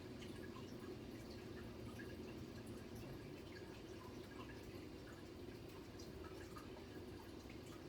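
Faint, scattered light clicks of fingers handling a plastic toy airplane model while its stickers are adjusted, over a steady low room hum.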